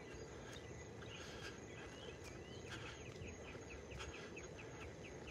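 Faint outdoor ambience with a steady low hum and soft footsteps. From about a second in, a bird gives a rapid series of short chirps, about three or four a second.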